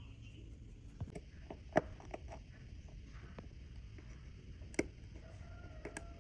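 Scattered light clicks and taps of small tools on watch parts, irregular and a second or so apart, the sharpest near two seconds in and near five seconds in.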